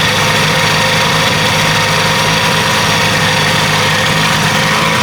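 1967 Evinrude Starflight 75 hp V4 two-stroke outboard motor idling steadily, just after starting first try.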